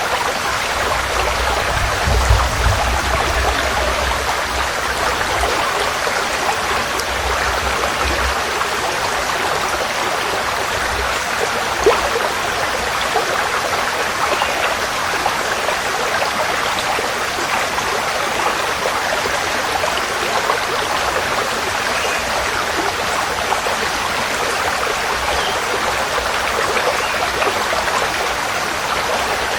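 Forest stream flowing, a steady rush and babble of water. A low rumble runs underneath for roughly the first eight seconds.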